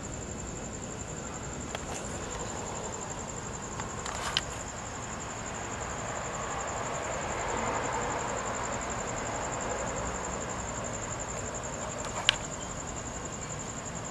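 Crickets chirping in a continuous, unvarying high-pitched trill, over a soft background rumble of distant traffic that swells around the middle. Two short sharp clicks, about four seconds in and near the end.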